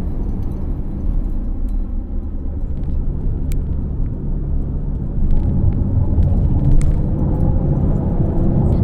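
Porsche 958 Cayenne's V6 running through its factory sport exhaust in sport mode, a steady low rumble that grows louder about five seconds in.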